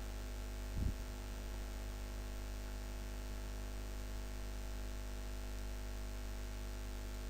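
Steady electrical hum with a stack of overtones under a faint hiss: the recording's noise floor. There is one soft low bump about a second in.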